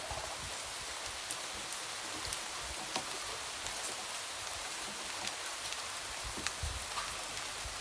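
Light rain pattering steadily on a window, with a steady hiss and scattered sharp ticks of single drops, plus a few soft low thumps.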